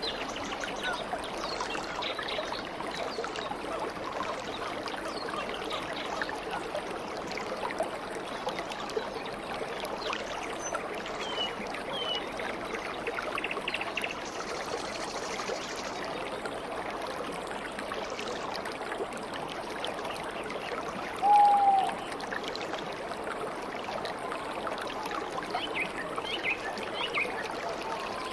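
A stream of water flowing and trickling steadily, with a few faint high bird chirps and one louder short bird call about three quarters of the way through.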